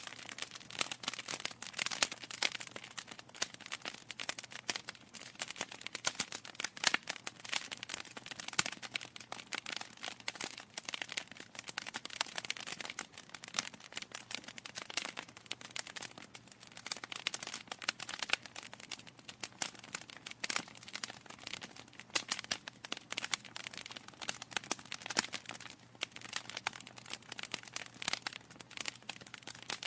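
Wood fire in a fireplace crackling steadily, with dense, irregular pops and snaps from the burning logs over a faint low hum.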